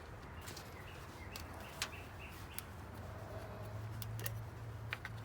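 Quiet background with a few faint, scattered clicks, typical of handling parts while setting up to pour oil, and several short high peeps.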